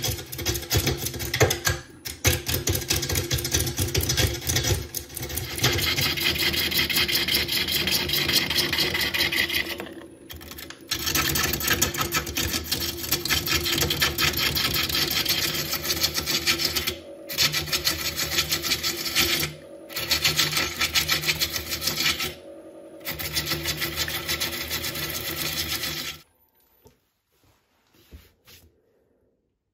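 Wood lathe spinning a burl blank while a tool cuts it: a fast, loud rattling chatter over the lathe's steady hum, typical of a tool meeting the burl's irregular, unbalanced wood. It breaks off briefly several times and stops near the end.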